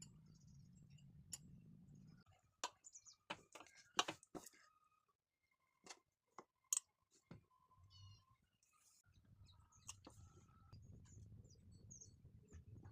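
Faint scattered clicks and taps over a low hum, with a few short high chirps in the last few seconds.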